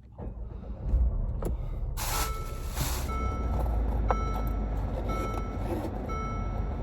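A car's warning chime dinging about once a second over a low steady rumble, with two loud rustling knocks just before the chiming starts.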